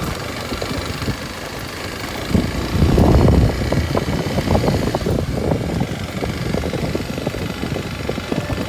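Kawasaki Super Sherpa's single-cylinder four-stroke engine running as the motorcycle rides along a forest road, rising to a louder stretch about three seconds in.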